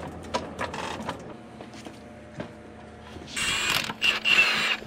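A few metallic clicks, then a power tool whirring in two loud bursts about three and a half seconds in, loosening bolts on the front suspension of a Can-Am Maverick X3.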